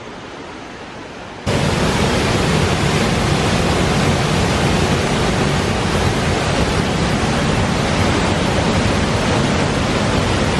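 Fast-flowing waterfall water rushing in a steady, even wash of noise, which jumps sharply louder about a second and a half in.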